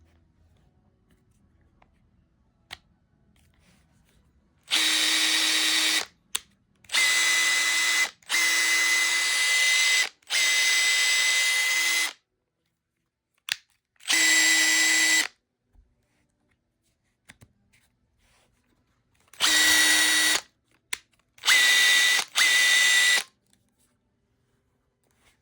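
Makita TP141D 18 V cordless 4-mode impact driver running free with no load, its motor run up to a steady high whine in eight short runs of one to two seconds each as the trigger is pulled and let go, checking that the repaired, overhauled tool works.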